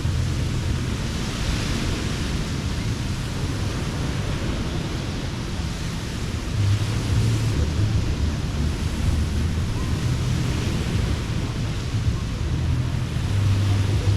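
Beach surf washing in, swelling and easing about every four seconds, over a steady low rumble.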